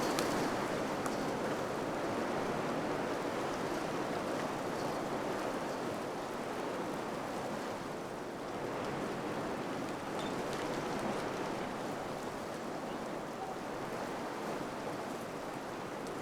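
Wind blowing steadily, a rushing noise that swells and eases slowly, with a few faint ticks.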